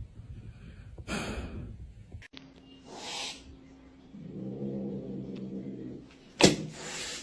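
A cat's sounds: short breathy bursts about one and three seconds in, then a low drawn-out call for about two seconds, and a sharp loud burst near the end.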